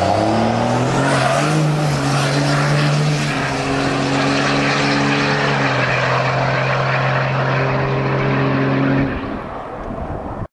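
Diesel truck engine running through a 5-inch exhaust with no muffler, revving up from idle right at the start and holding steady at raised revs, then easing off about nine seconds in.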